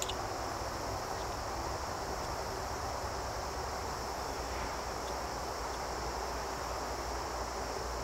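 Steady outdoor ambience: a continuous high-pitched insect drone over a low rumble of wind on the microphone.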